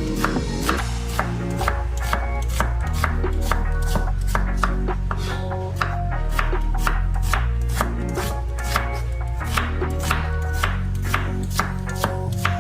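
Knife chopping on a cutting board in quick, fairly regular strokes, about three to four a second, over background music.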